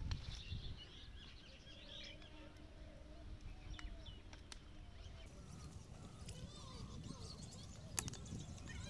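Faint outdoor ambience: small birds chirping now and then over a low background rumble, with one sharp click about eight seconds in.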